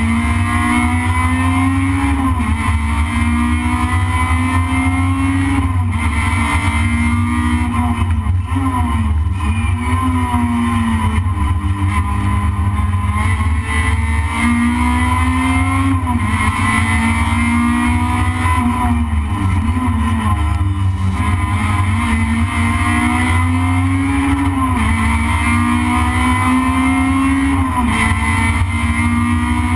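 Toyota Corolla race car's engine heard from inside the cabin under hard acceleration. Its pitch climbs steadily and drops sharply at each gear change, with several quick rises and falls under braking for corners, over a steady low rumble.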